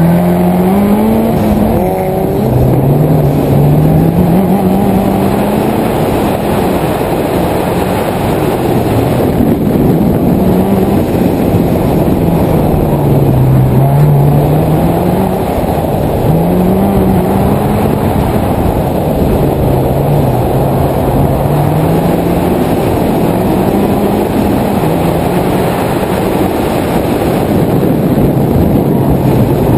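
Turbocharged Subaru EJ257-based flat-four of a 2000 Impreza 2.5 RS, with a catless downpipe and straight-piped catback exhaust, launching hard at the start. It then revs up and drops back again and again as the car accelerates and lifts between corners.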